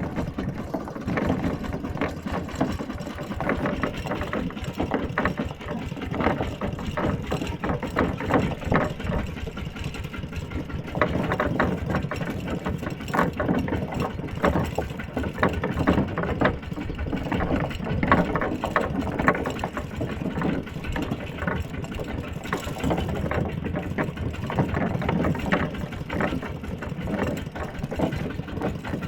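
Mini tractor's engine running steadily, with a rapid even chugging.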